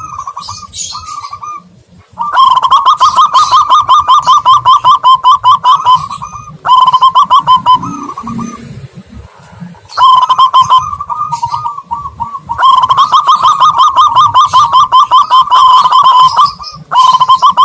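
Loud recorded dove cooing played as a lure for zebra doves and spotted doves. It comes in runs of quick repeated notes, about ten a second, each run lasting up to about four seconds with short breaks between.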